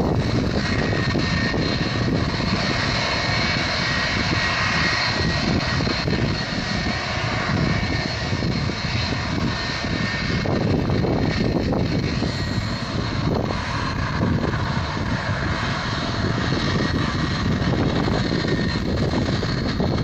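Boeing 757-300's jet engines running at a steady low power on the ground, a continuous rush with a high whine that holds its pitch throughout.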